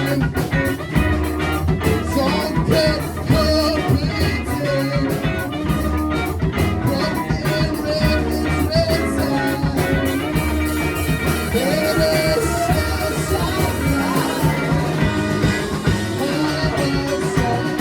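Four-piece rock band playing live: drum kit, bass and electric guitar at a steady beat, with a melodic line over it.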